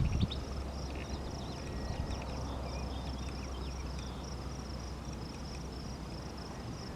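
Insects trilling in a steady, rapidly pulsing high tone, with short bird-like chirps scattered through and a low steady rumble underneath.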